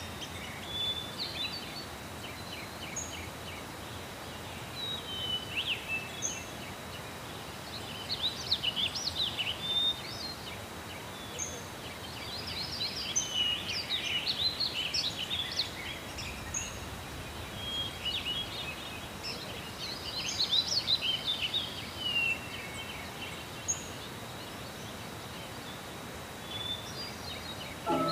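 Small birds chirping and trilling in irregular bursts over a steady outdoor hiss, busiest about eight, thirteen and twenty seconds in.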